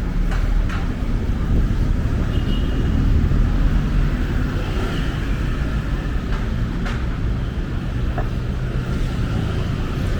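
Steady low rumble of city road traffic passing along a busy street, with a few faint clicks.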